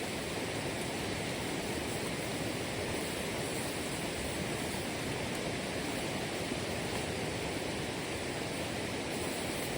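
Steady rushing noise, even throughout, with no separate sounds standing out.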